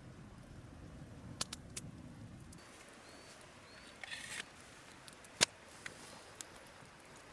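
Wood fire crackling with a few scattered sharp pops, the loudest about five seconds in, and a short rustle about four seconds in.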